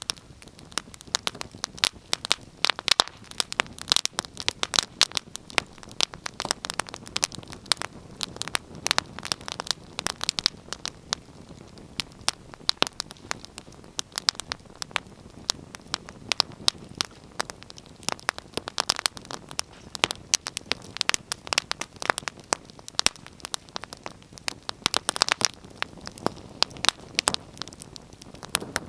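Wood fire crackling: irregular sharp pops and snaps, many a second, over a soft steady hiss of burning.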